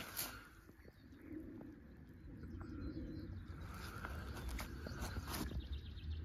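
A bird cooing in low, repeated phrases about every second and a half, over a steady low rumble with a few light clicks.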